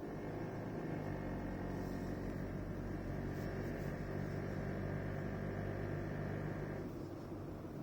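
2016 Toyota Prado VX engine pulling under acceleration with a rattling noise over its hum; the rattle stops about seven seconds in as the throttle is released. The owner suspects something loose under the hood.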